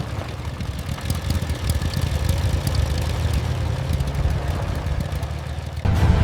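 Motorcycle engine idling, a low, uneven rumble with light ticking. Music comes in abruptly near the end.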